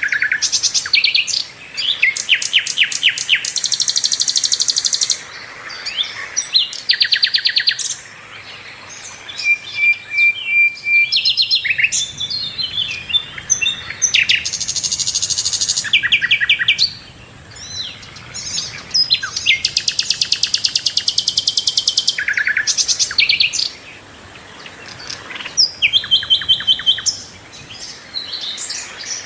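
Sikatan londo flycatcher singing a loud, clear song: phrase after phrase of rapid high trills and chattering notes with short gaps between them, the kind of 'gacor' full song used as a master recording to train captive songbirds.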